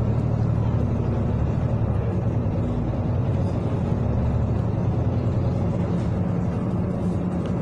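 City bus engine running steadily under load, a low droning hum with road noise, heard from inside the passenger cabin.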